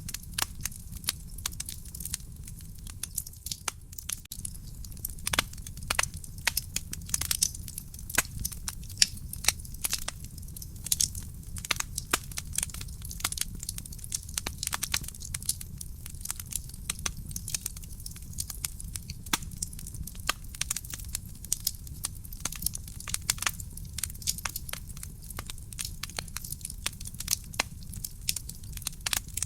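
Wood fire burning in a fireplace: dense, irregular crackling and popping of burning logs over a low, steady rumble of flames.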